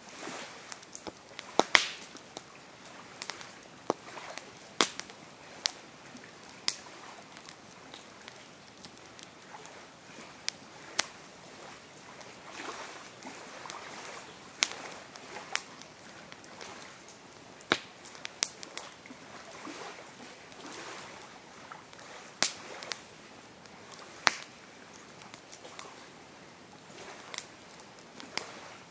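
Campfire crackling: burning wood giving off irregular sharp pops and snaps, a few much louder than the rest, over a soft steady hiss of flames.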